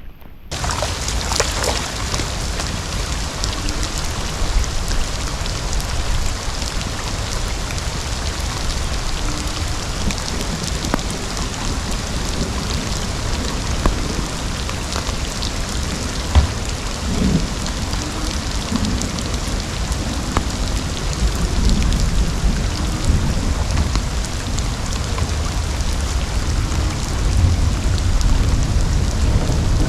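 Heavy rain falling steadily, with low rumbling underneath; it starts just after the opening moment.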